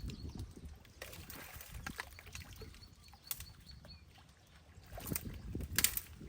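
Water sloshing and splashing, with scattered knocks and clicks, louder near the end.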